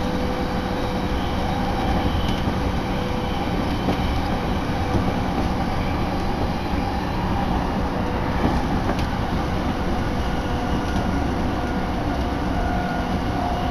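Tokaido Line commuter train running at speed, heard from inside the carriage: a steady rumble with a faint steady whine over it.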